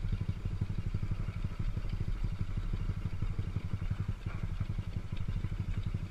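Motorcycle engine running steadily at low revs, its rapid firing pulses even and unchanging.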